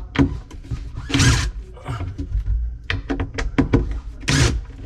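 Tools and a wooden cabinet panel being worked on: a run of sharp clicks and knocks, with two short scraping rushes, one about a second in and one near the end.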